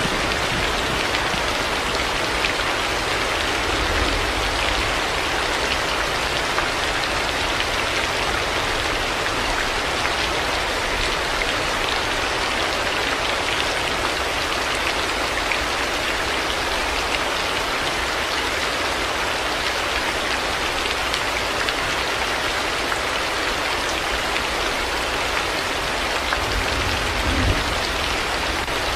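Heavy rain falling steadily, with a faint low rumble about four seconds in and again near the end.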